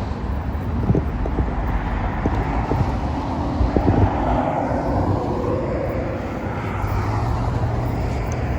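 Street traffic noise: a steady low rumble with a vehicle swelling past around the middle, and a few light knocks in the first half.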